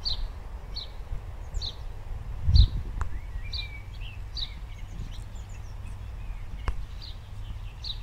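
A songbird repeating short, high chirps about once a second, with a brief warbling phrase near the middle, over a steady low rumble of wind on the microphone. One loud thump comes about two and a half seconds in, and two sharp clicks follow later.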